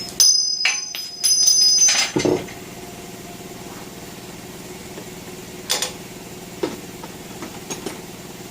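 Two short bursts of a high-pitched compressed-air tool in the first two seconds, a whistling hiss, over a steady low machine hum; a couple of light clicks follow.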